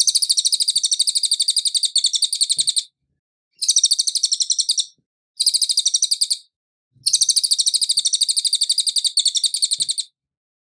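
Cililin songbird singing four bouts of fast, high, evenly repeated notes, about ten a second. The bouts last between one and three seconds, with short pauses between them.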